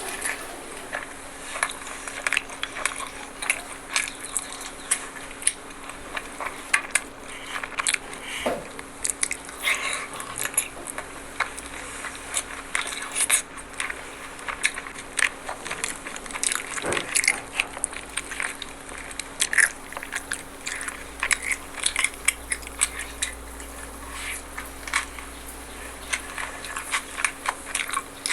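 A person chewing and biting food close to the microphone, with many short, irregular crunches and clicks. A faint steady hum sits underneath.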